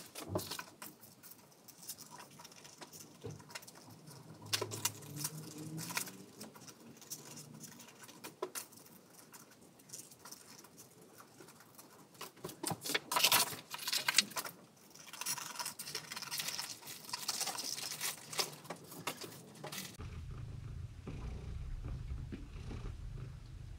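Scissors snipping through paper and thin card, with paper rustling and crinkling in irregular bursts. About twenty seconds in, this gives way to a cat's steady low purr.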